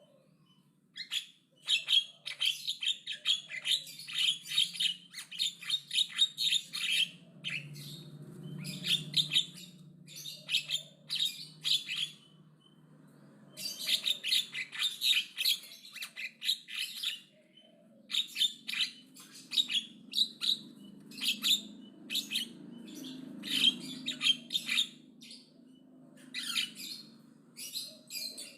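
Javan myna chattering loudly: quick runs of rapid notes in several bouts of a few seconds each, with brief pauses between them.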